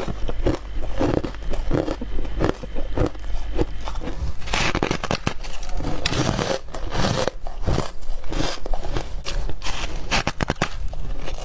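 A person biting and chewing freezer frost, a dense run of crisp, irregular crunches close to the microphone.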